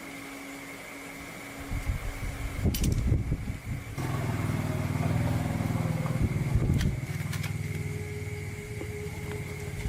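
Restored old motorbike's small engine sputtering irregularly for a couple of seconds, then catching about four seconds in and running steadily. It rises briefly near the middle, then settles to a lower, even idle.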